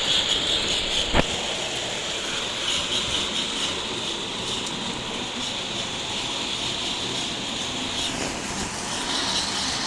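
O gauge model train running on its track: a steady rolling rumble and whir, with one sharp click about a second in.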